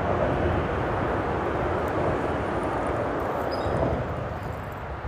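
Steady drone of freeway traffic on the bridge overhead, easing slightly about four seconds in.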